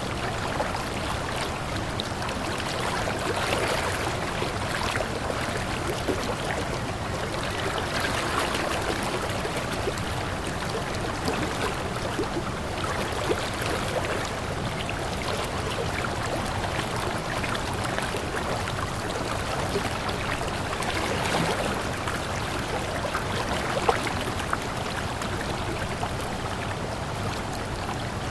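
Water flowing steadily over rocks in a stream, with a continuous rush and small trickling splashes throughout.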